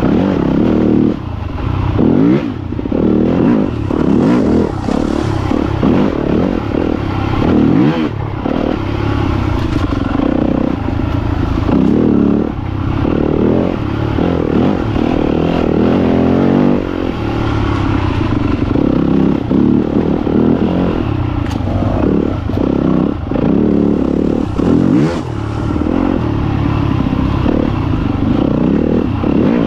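Yamaha YZ250FX single-cylinder four-stroke dirt bike engine ridden on a trail, revving up and down with the throttle and dipping briefly over and over as the throttle is rolled off and on, with clattering from the bike over rough ground.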